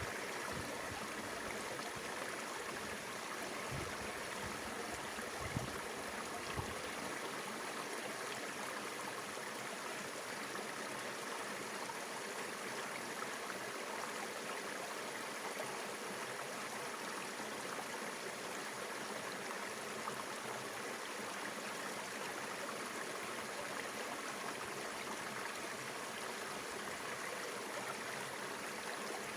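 Mountain river water flowing and rushing steadily. A couple of short low knocks come a few seconds in.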